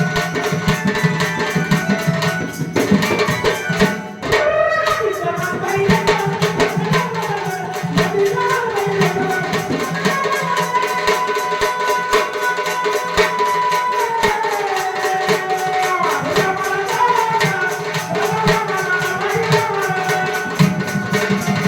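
Marathi devotional music: tabla keeps a steady rhythm under a melody with long held notes, one held for several seconds in the middle before gliding down.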